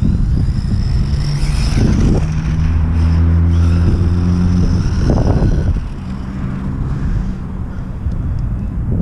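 Electric motor and gear whine of a WLtoys short course RC truck as it is driven, rising and falling in pitch. Gusts of wind buffet the microphone, and a steady low hum comes in twice.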